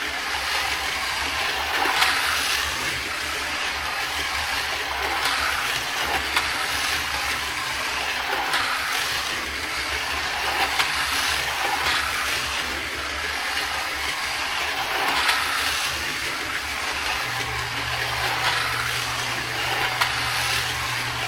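Carrera GO!!! slot cars' small electric motors whirring as the cars run laps on the plastic track, the sound swelling every couple of seconds as a car passes close by.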